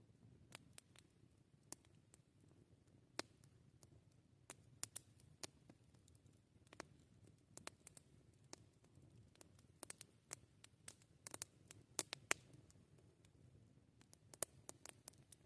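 Campfire crackling: irregular sharp pops and snaps, some in quick clusters, over a quiet low rumble.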